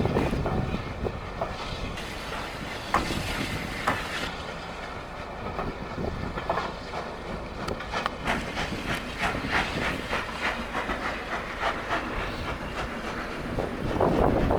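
Train passing on the rails, running with a steady rumble, then a rhythmic clickety-clack of wheels over rail joints about two beats a second from just past the middle.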